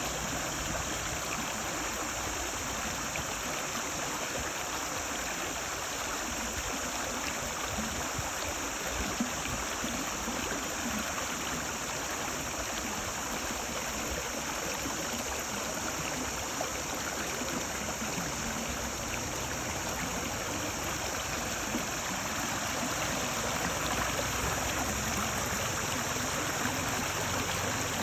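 Stream water babbling, a steady unbroken rush.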